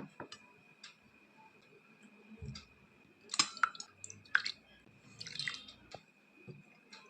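Scattered soft clicks and short handling noises, a few at a time, over a faint steady high whine.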